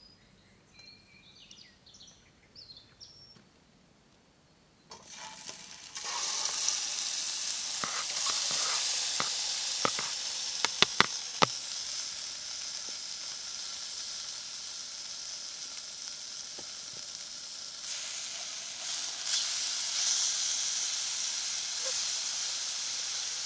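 Sausage frying in a pan, sizzling steadily from about five seconds in. Sharp pops of spattering fat come around the middle.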